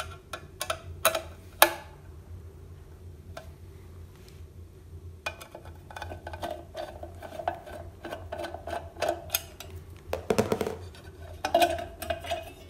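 Metal ceiling-fan mounting hardware clinking and rattling as it is loosened and handled: a few sharp clicks in the first two seconds, a longer stretch of rattling in the middle, and a brief rush of noise about ten seconds in.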